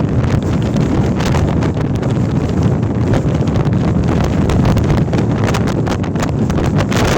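Storm-force wind battering the microphone and a Hilleberg Tarra tent: a constant heavy rumble of wind with rapid, irregular cracks and snaps of flapping tent fabric.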